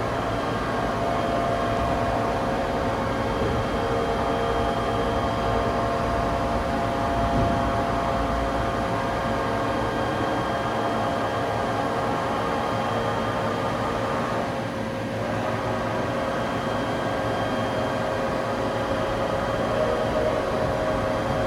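Industrial machinery running steadily: an even mechanical hum with several constant whining tones, dipping briefly about fifteen seconds in.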